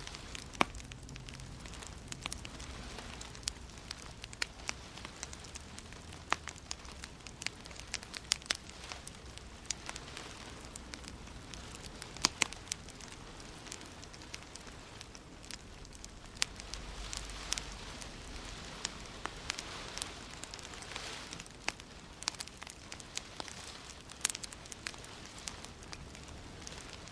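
Wood fire crackling: irregular sharp pops and snaps, several a second and some louder than others, over a steady soft hiss.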